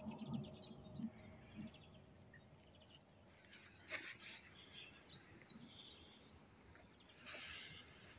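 Quiet lakeside ambience with faint small-bird chirps: a quick series of short high notes about halfway through, then a brief rustling rush of noise near the end.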